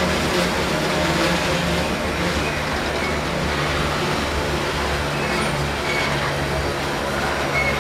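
Loaded iron-ore hopper cars rolling past: a steady rumble of steel wheels on the rails.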